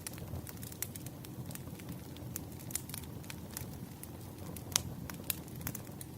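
Wood fire crackling in a fireplace: a steady low rumble of flames with frequent irregular sharp pops, two louder pops about five seconds in.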